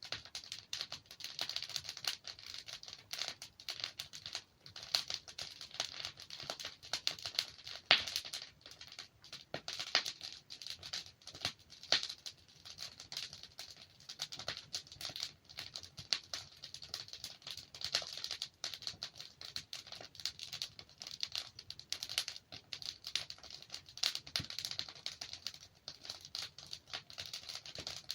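Wood logs burning in a fireplace: steady, dense crackling with occasional sharper pops, the loudest about eight seconds in and another near twelve seconds.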